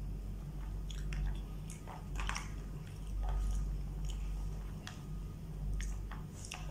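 A person chewing a mouthful of rice and meat eaten by hand from a plastic takeaway tray, with scattered short clicks and ticks over a steady low hum.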